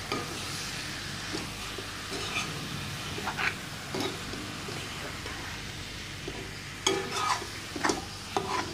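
Chicken pieces frying in a pepper masala in a metal kadai, sizzling steadily while a metal spatula stirs them, scraping and clinking against the pan several times, more often near the end.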